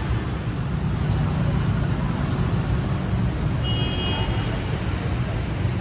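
Steady rumble of dense city street traffic passing close by, with a short high horn beep about four seconds in.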